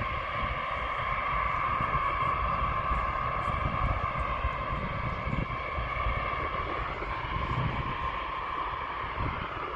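B-52 bomber's eight jet engines running, a steady whine over a low rumble that swells slightly a few seconds in.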